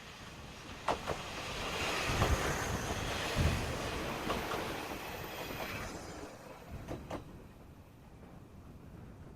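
Two-car KiHa 40 diesel railcar train running past, its noise swelling and then fading, with the wheels clicking over rail joints about a second in and again near the end.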